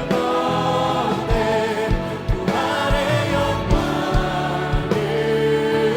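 Live contemporary worship band playing a praise song, several voices singing together over keyboards and a drum beat.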